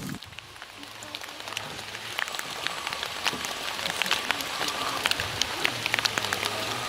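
Rain falling: a dense run of drop impacts that builds up over the first couple of seconds and then holds steady.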